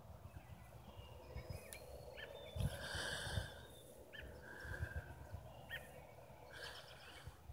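Scattered short bird chirps and calls, faint and spaced a second or so apart, over a low rumble on the microphone.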